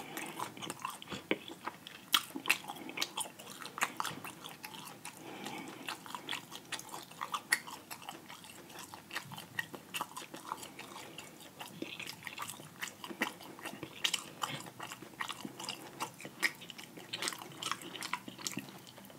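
Close-miked chewing of fried chicken: a steady run of small, irregular wet mouth clicks and smacks.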